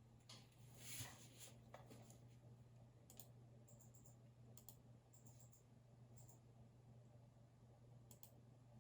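Faint, scattered clicks of a computer keyboard and mouse: a few keystrokes and clicks, spaced apart. About a second in there is a brief soft noisy swell.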